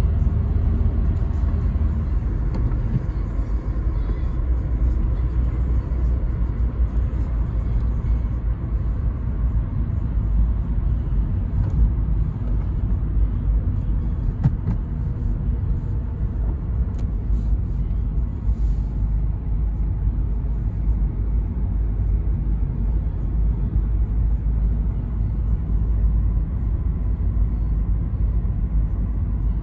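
Toyota Carina E's 1.6-litre 16-valve four-cylinder engine running with road noise while the car is driven, a steady low rumble. The low note shifts down about two seconds in.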